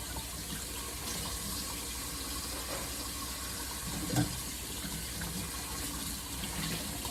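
Kitchen tap running steadily into the sink, with a single short knock about four seconds in.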